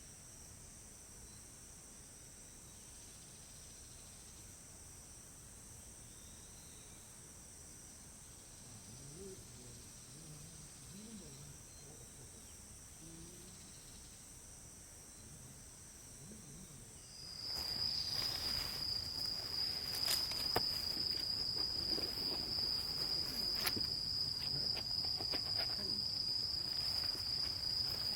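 Insects chirping steadily in a high, even chorus. About 17 s in the sound gets louder, with one strong steady high trill and scattered clicks and knocks.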